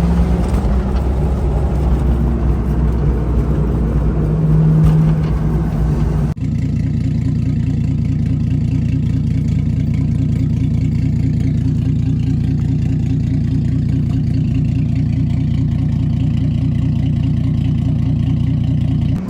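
Ford Fox-body Mustang's 5.0 V8 pulling under acceleration with road and wind noise, then, after a sudden cut about six seconds in, running at a steady, even pitch while cruising.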